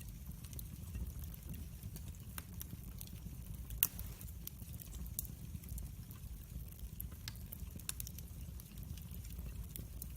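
Log fire burning in a fireplace: scattered sharp crackles and pops over a low steady rumble, with one louder pop about four seconds in.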